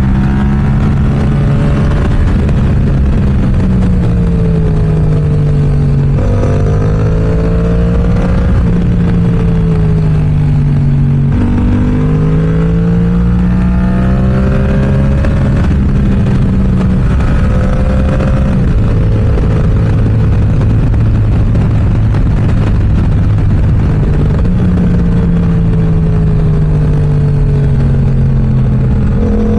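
Yamaha YZF-R7's parallel-twin engine through an M4 aftermarket exhaust, running hard while riding. Its pitch repeatedly climbs and drops as the rider accelerates, shifts and rolls off the throttle, with a steadier cruising stretch past the middle.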